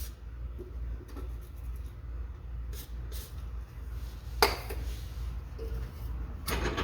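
Handling noises as a rubber exhaust hanger is worked loose from its rod under the car: a few faint clicks, one sharp knock about four and a half seconds in, and a short squeak soon after, over a low steady hum.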